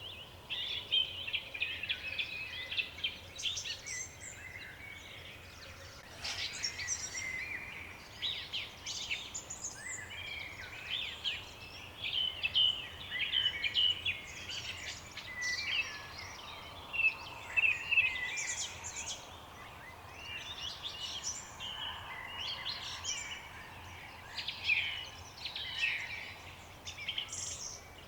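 A chorus of small songbirds singing together, with many overlapping chirps and trills throughout.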